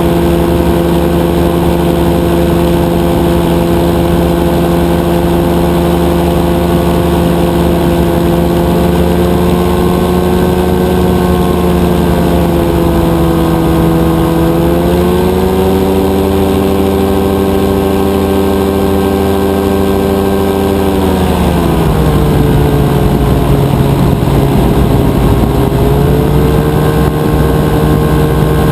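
Rotax 582 two-stroke twin-cylinder engine and propeller of a powered parachute running steadily in flight. Its pitch climbs gradually through the middle, drops quickly about three-quarters of the way through as power comes back, then rises a little near the end.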